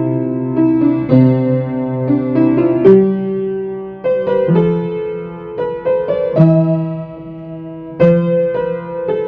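Solo piano playing a Christmas carol: chords and melody notes struck in a gentle, steady tempo.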